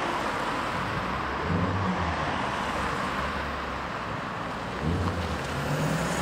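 Slow-moving car engines, among them a Land Rover Defender pulling out onto the road, over steady road and tyre noise. The engine note swells briefly about a second and a half in and again near the end.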